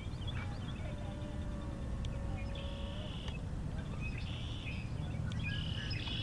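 Birds calling outdoors: three short buzzy trills in the second half, over a steady low rumble.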